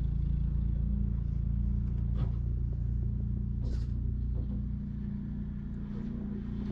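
Snowblower engine running steadily, a little quieter from about five seconds in.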